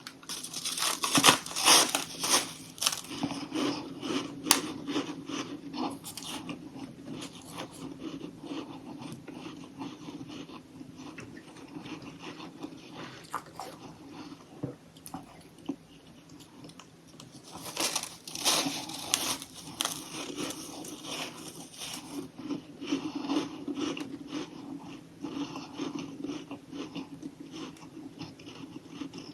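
Close-up crunching and chewing of frozen humidifier freezer frost chunks. The loudest crackling bites come about a second in and again about eighteen seconds in, with quieter chewing between.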